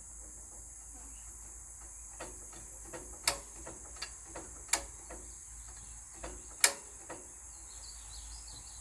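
Steady high-pitched chirring of insects, with a scatter of sharp clicks and knocks about two to seven seconds in, three of them louder than the rest.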